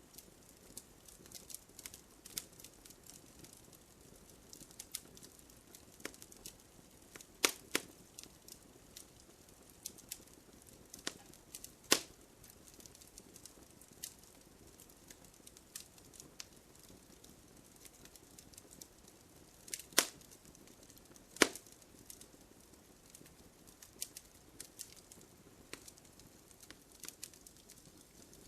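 Wood fire crackling: a faint steady hiss under frequent small snaps, with a few loud, sharp pops spread through.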